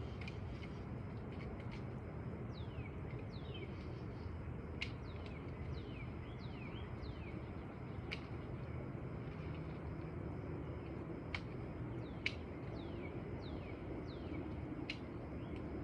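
Birds calling with many short notes that slide down in pitch, over a steady low outdoor rumble, with a few sharp clicks scattered through.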